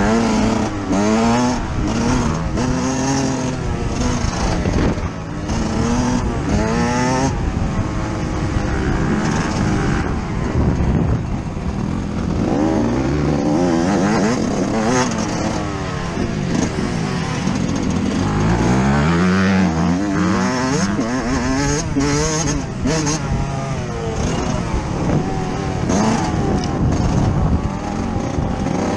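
Yamaha YZ125 single-cylinder two-stroke motocross engine, recorded on board, revving hard and falling back again and again as the rider opens and shuts the throttle and shifts around the track, with rushing wind noise over it.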